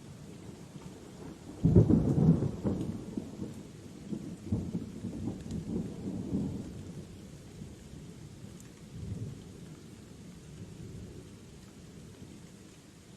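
Thunder over steady rainfall: a sudden crack about two seconds in that rolls into a low rumble and fades over several seconds, with a weaker second rumble later.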